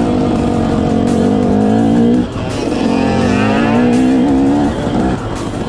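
Off-road vehicle engine running hard at high revs, its note holding steady, dipping briefly about two seconds in, then pulling again.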